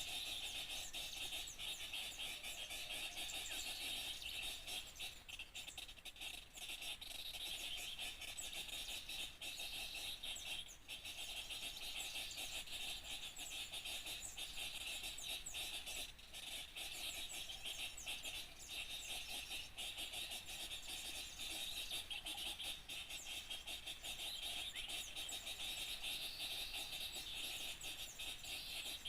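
A dense, unbroken chorus of many small birds chirping and calling at once, the rapid high chatter of a small-bird luring call mix.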